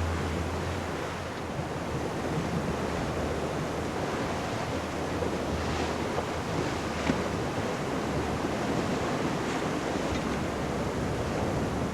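Water rushing past the hull of a sailing yacht under way at speed, with wind buffeting the microphone. A low hum fades out within the first second.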